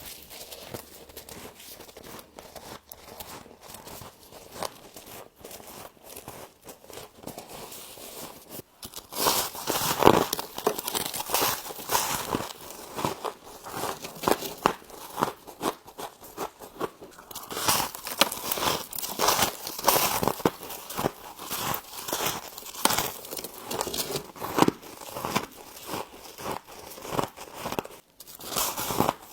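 Close-up crunching and chewing of frost, softer crackling for the first several seconds, then loud, dense crunches from about nine seconds in.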